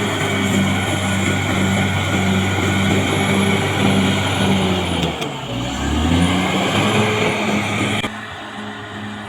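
Caterpillar D6R XL bulldozer's diesel engine working, loud and steady; about five seconds in the revs dip and climb back up. Near the end the sound drops suddenly to a quieter level.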